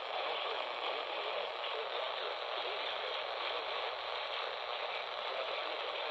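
Steady radio static: a thin, even hiss from a radio receiver with no clear signal coming through.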